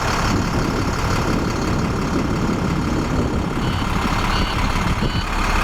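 International DT466 diesel engine of a 2009 International 4300 box truck running steadily. A little past halfway, a reversing alarm starts beeping about once every two-thirds of a second.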